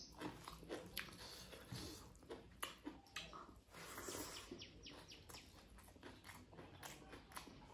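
Close-miked wet chewing and lip-smacking of a person eating a mouthful of rice with dal and greens by hand, with many short clicks and smacks.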